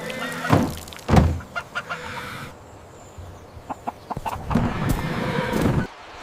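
Chickens clucking, mixed with a series of sharp knocks or pecks, the loudest two in the first second and a half.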